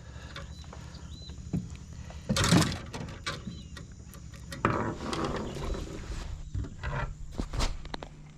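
Knocks, clicks and rustling from handling gear and a freshly landed catch aboard a small boat, with a louder rustle about two seconds in and again near five seconds.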